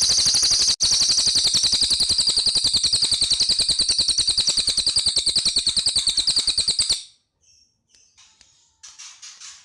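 Cililin bird singing a rapid, rattling trill of about ten notes a second, high-pitched and continuous for about seven seconds with one brief break near the start, followed by softer short chirps near the end.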